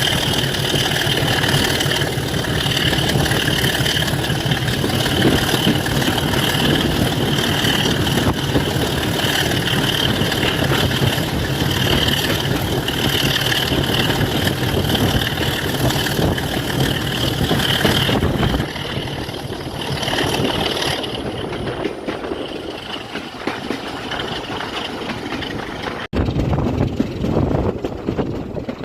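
Diesel locomotive engine idling steadily, with a low hum and a high whine. The sound thins and drops in level about two-thirds of the way through, with a very brief break near the end.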